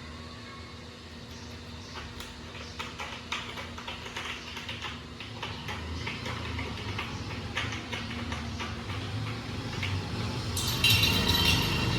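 Scattered light clicks and taps, then a brief bright metallic jingle about eleven seconds in.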